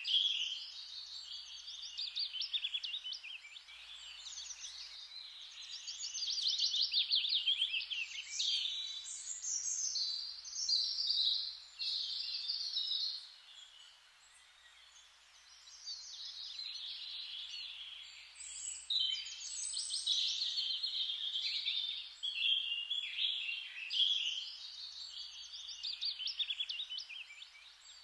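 Several songbirds singing together, with rapid chirps and trills that overlap, and a short lull about halfway through.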